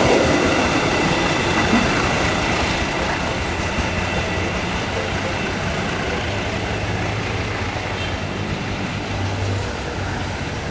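Passenger train running along the rails, a steady rush of wheel and track noise that gradually fades as it moves away.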